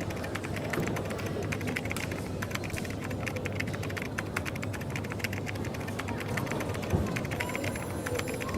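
Typing on a keyboard: a rapid, irregular run of light clicks over a steady low hum of café background noise, with a soft thump about seven seconds in.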